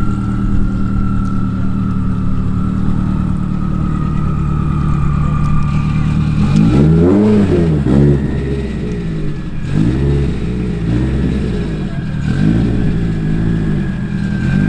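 Car engine running steadily, then revved up and down about four times from roughly six seconds in.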